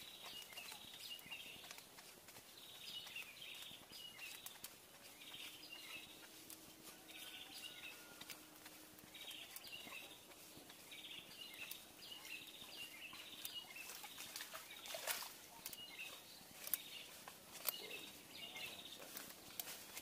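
Small birds chirping in short, repeated high phrases over a faint outdoor background, with scattered light clicks and one sharper click near the end.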